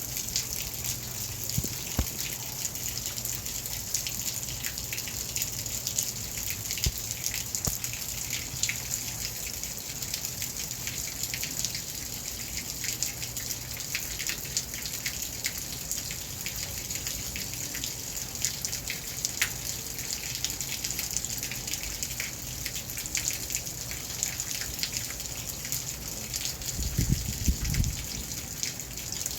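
Steady rain falling, a constant hiss with many individual drops ticking and dripping. A brief low rumble comes near the end.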